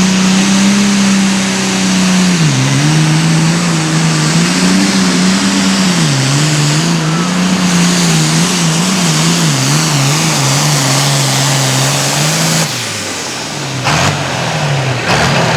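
Super farm pulling tractor's turbocharged diesel engine at full power under load as it pulls the sled, its pitch dipping and wavering. About twelve and a half seconds in the engine drops off sharply, then comes back in short surges.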